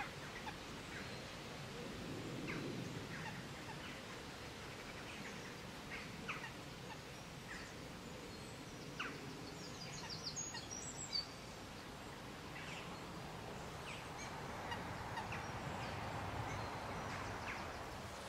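Scattered short bird calls and chirps over a steady outdoor background hiss, with a quick run of high chirps about ten seconds in.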